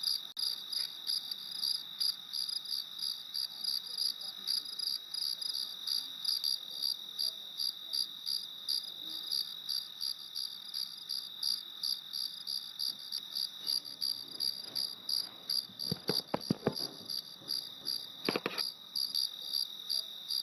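Insects chirping in a steady, evenly pulsing high-pitched trill that keeps on without pause, with a few faint knocks about three-quarters of the way through.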